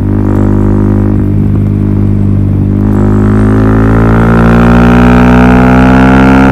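Suzuki DR-Z400SM single-cylinder engine running through a Yoshimura full exhaust system, loud and unmuffled. It holds steady at first, then the revs climb slowly through the second half.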